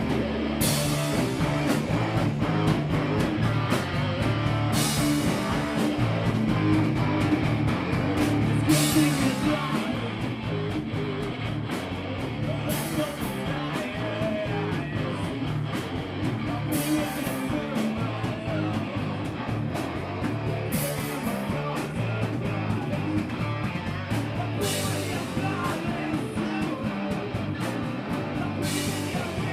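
Rock band playing live with distorted electric guitar, bass and drums, cymbal crashes about every four seconds, and some singing.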